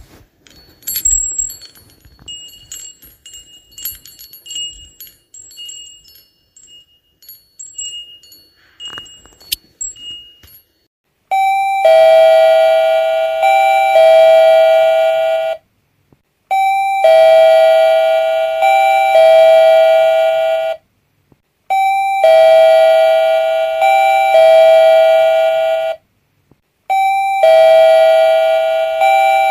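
Electronic doorbell chime ringing a two-tone ding-dong, higher note then lower, repeated four times with short gaps, starting about eleven seconds in. Before it come quieter, scattered high-pitched tones.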